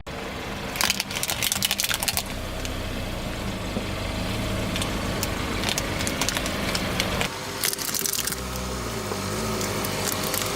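Car engine running low and steady while its tyres crush crunchy objects, giving clusters of crackling, snapping crunches about a second in and again near eight seconds.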